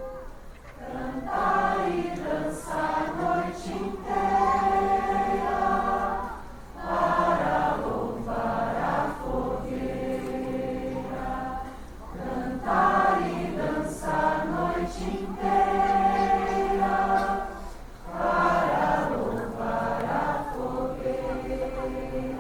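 A group of people singing a song together, phrase after phrase with short pauses about every six seconds.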